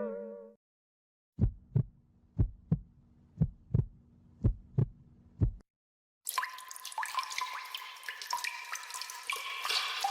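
Heartbeat sound effect: about five double thumps (lub-dub), roughly one a second. It follows the wobbling tail of a boing effect fading out at the start and gives way, a little after halfway, to a running, bubbling water effect.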